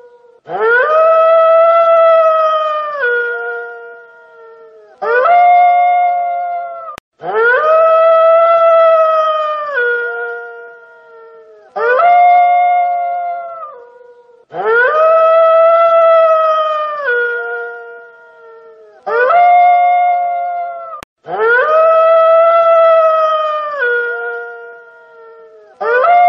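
Wolf howling in repeated pairs: a short howl, then a longer one that rises, holds steady and drops in pitch at its end. The same pair comes back about every seven seconds, as if looped.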